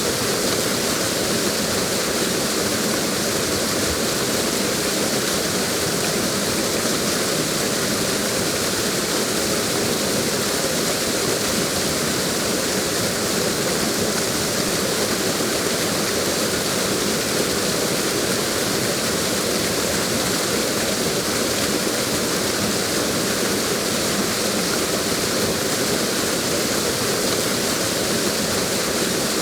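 Waterfall rushing steadily, a constant full hiss of falling water with no breaks.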